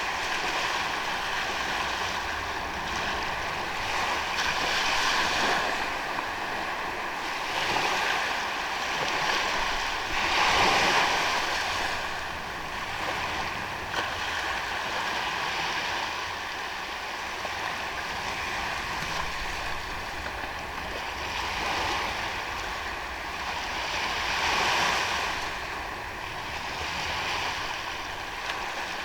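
Sea waves breaking and washing up on a beach, the surf swelling every few seconds, strongest about ten seconds in. A faint steady high tone runs underneath.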